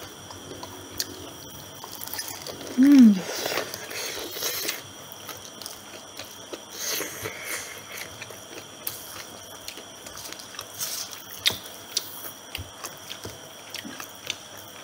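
Biting and chewing crispy deep-fried chicken, with many small crunches and crackles of the battered coating. About three seconds in there is a short hum that falls in pitch, the loudest sound.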